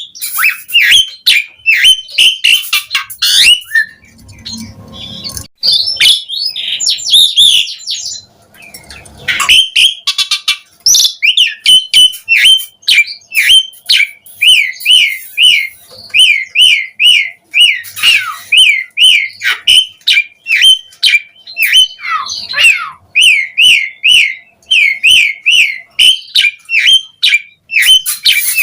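Asian pied starling singing a long, varied song of chirps, squawky notes and whistles. Over the second half it settles into a fast run of short repeated sweeping notes, about three a second.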